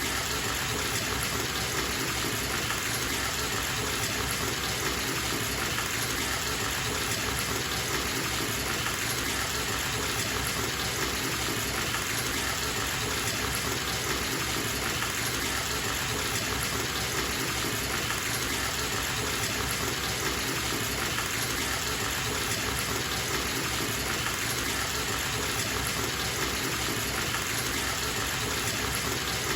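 Bathtub tap running steadily into the tub, a continuous even gush of water with no breaks.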